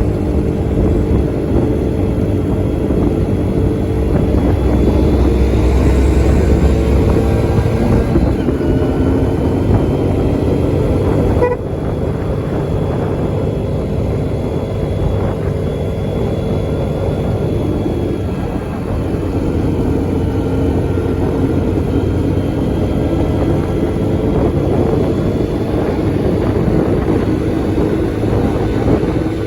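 Motor vehicle engines running steadily, in the manner of road traffic, with a brief break about a third of the way in.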